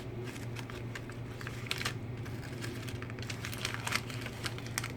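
Small plastic pieces and their packaging being handled: irregular light clicks and crinkles, over a steady low hum.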